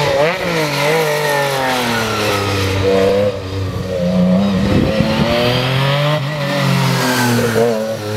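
Rally car engine revving hard, its pitch rising and falling repeatedly as it accelerates and changes gear.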